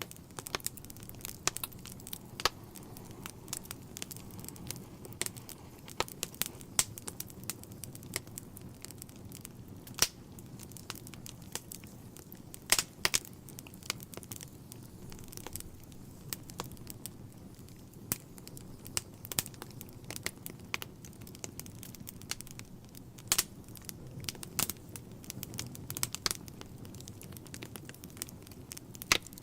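Wood fire burning in a fireplace: irregular sharp crackles and pops over a low steady rumble of flame.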